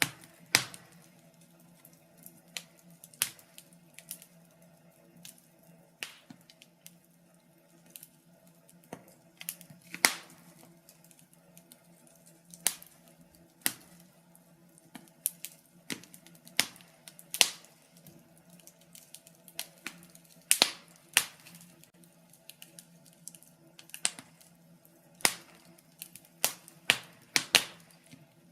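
Wood fire burning in a fireplace, crackling with irregular sharp pops and snaps, roughly one or two a second, some much louder than others, over a faint steady low hum.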